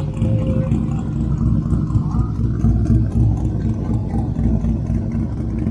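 A vehicle engine running steadily with a deep rumble.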